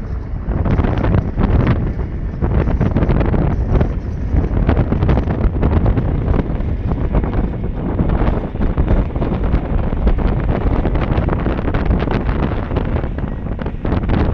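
Wind buffeting the microphone over the continuous rumble and clatter of a moving train.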